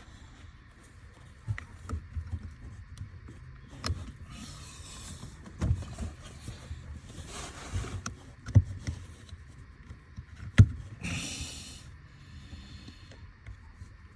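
Handling noises: scattered sharp knocks and clicks with a few short bursts of rustling.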